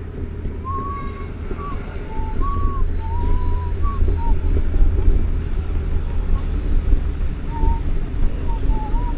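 Low, steady rumble with wind buffeting the microphone, over which someone or something whistles a series of short, clear notes, some held briefly and some sliding, mostly in the first few seconds and again near the end.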